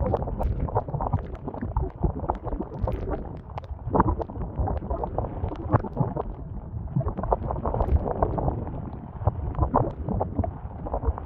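Strong gusting storm wind buffeting the microphone in a low rumble, with many irregular knocks, rustles and crackles on top.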